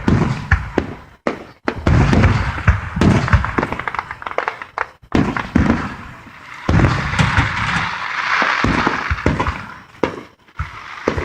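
Aerial fireworks going off: a quick run of bangs and thumps, then a stretch of crackling from about seven seconds in.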